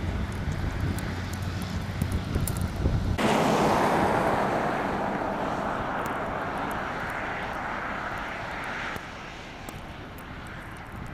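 Road vehicle noise in snow: a low engine rumble, then, after a sudden change about three seconds in, a loud tyre hiss that slowly fades, and drops off near the end.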